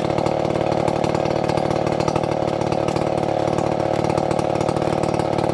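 STIHL two-stroke chainsaw running steadily at constant speed.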